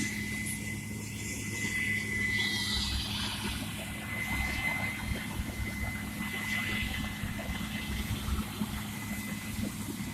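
Farm machinery engine running steadily, a low hum with a faint high whine.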